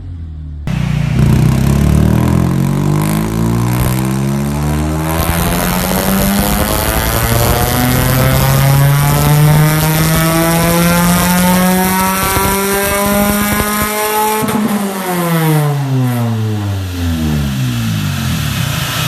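Honda Civic EP2 Sport's four-cylinder engine and exhaust pulling up through the revs in one long, steady rise of about fourteen seconds, then the revs falling away for the last few seconds after lift-off.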